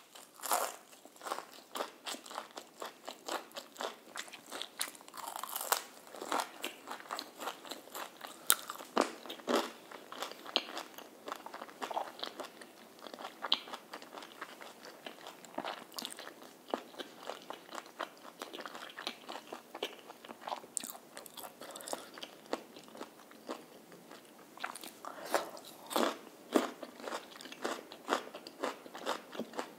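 Close-miked eating of crispy fried chicken: a continuous run of sharp crunches and bites as the battered coating is chewed.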